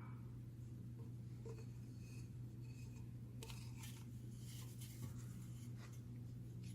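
Faint rubbing and light clicks of parts being handled, over a steady low hum.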